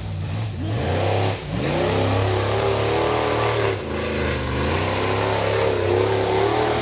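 Rock bouncer buggy's engine revving hard under load, the revs rising and falling, with two brief throttle lifts, one about a second and a half in and another near four seconds.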